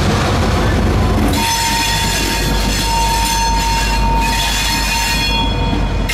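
CSX diesel locomotives rolling past with a steady low rumble. From about a second in, high-pitched wheel squeal rings over it, easing off shortly before the end and starting again.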